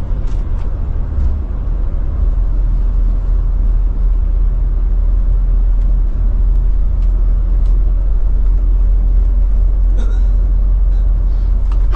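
Loud, steady low rumble of a moving road vehicle, heavy in the bass, with a few faint ticks.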